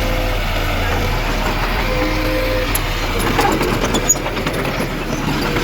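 Heavy diesel engine of earthmoving machinery running with a steady low hum, with scattered clicks and clanks in the second half.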